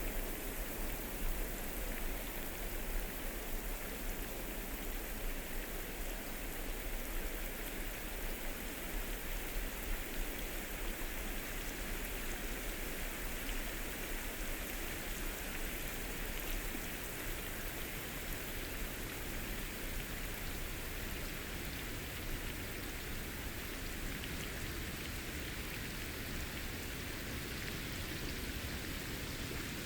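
Steady rain falling on forest foliage, with dense pattering of raindrops on leaves.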